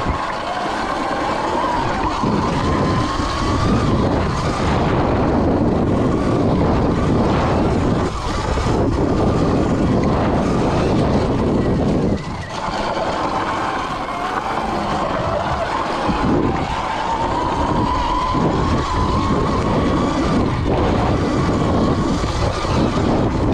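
Electric dirt bike being ridden: its motor whine rises and falls with speed over steady wind and tyre noise, easing off briefly twice.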